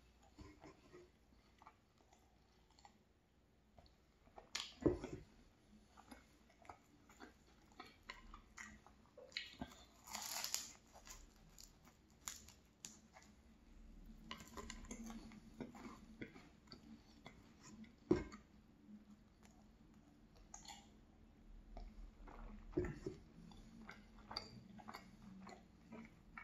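Close-up chewing and crunching of a flaky croissant topped with almond flakes, with soft crackles as the pastry is torn and bitten. A few sharper knocks stand out, the loudest about 5 s and 18 s in.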